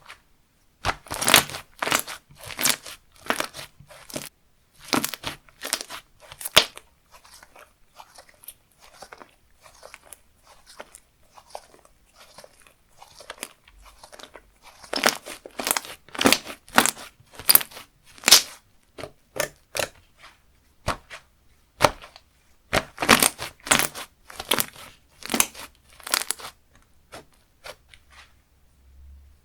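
Slime being squeezed, stretched and pressed by hand, giving irregular runs of sharp wet clicks and pops, denser in three stretches with sparser clicks between.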